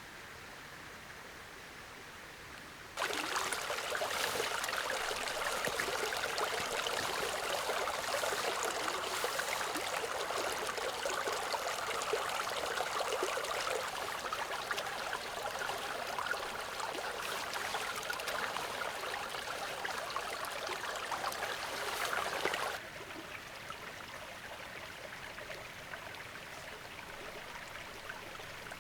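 Steady rushing water that starts suddenly about three seconds in and stops suddenly some twenty seconds later, over a fainter steady hiss.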